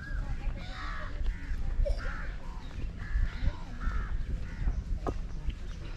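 Birds calling: a string of short calls, several to the second at times, over a steady low rumble.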